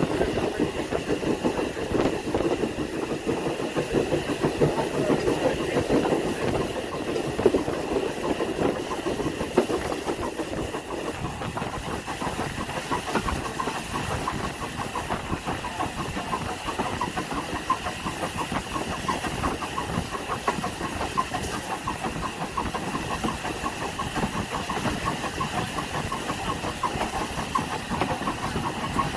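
Heritage railway train running along the line: a steady engine sound mixed with wheel-on-rail rattle.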